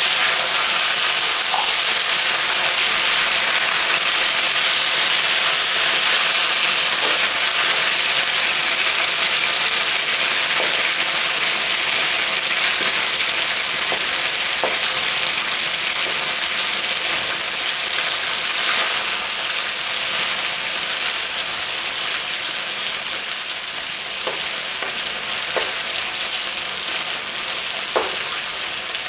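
Chicken thigh pieces sizzling in hot oil in a wok on lowered heat as they are stir-fried with a spatula. The frying hiss is steady and slowly gets quieter, with a few light clicks of the spatula.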